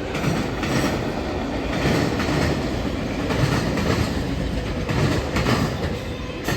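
Freight train cars, enclosed auto racks, rolling steadily past, with wheels clacking over the rail joints and a faint steady high squeal from the wheels.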